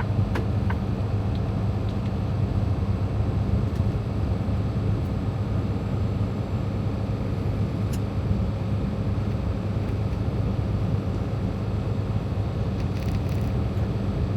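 Steady low drone of a Freightliner Cascadia semi truck cruising at an even speed, engine and road noise heard from inside the cab. A few light, regular ticks fade out in the first second.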